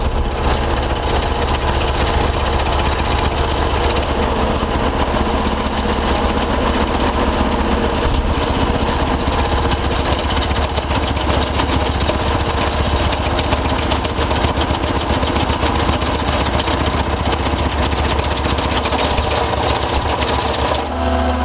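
Allied 9700C hydraulic plate compactor attachment vibrating, a rapid steady hammering over a running diesel engine. The vibration stops near the end, leaving the engine running.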